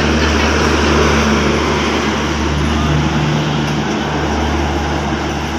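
Train running close by: a loud, steady rumble with a low engine drone, easing slightly near the end.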